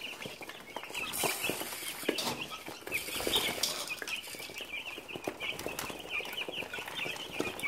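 A flock of about thirty young meat chickens peeping and cheeping nonstop, excited and hungry at their morning feeding after their food was taken away overnight. Scattered knocks and rustling come through the calls.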